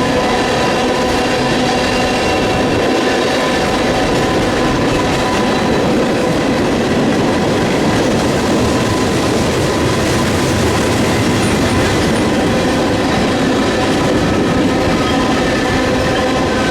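Freight train rolling past: a steady rumble of cars on the rails, with wheels squealing in several held high tones.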